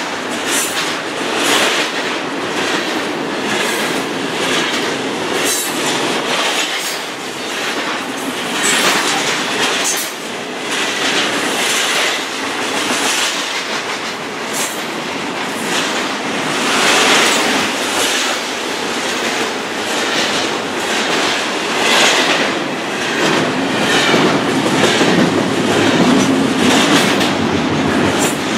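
A train's cars rolling past close by, their wheels clattering over the rail joints in a steady run of knocks, with no let-up.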